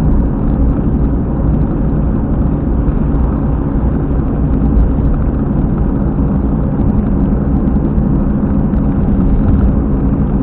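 Car at expressway speed with a loud, steady low rumble from the rear wheel, the sign of a failed rear hub bearing according to the owner.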